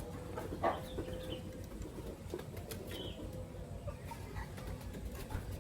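Lovebirds: one short call about a second in and a faint chirp later, with scattered light clicks over a steady low hum.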